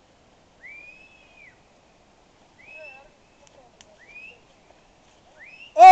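A few faint, separate whistled notes, each a single tone that rises and falls, spaced a second or two apart. A loud shouted call cuts in right at the end.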